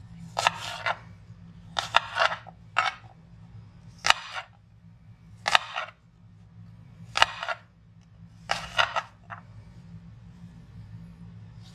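Sharp kitchen knife slicing through apples and striking the cutting board in a series of crisp cuts, one every second or so, over a low steady hum.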